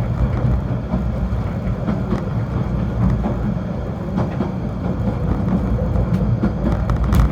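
Snowdon Mountain Railway train running: a steady low rumble with scattered clicks and knocks.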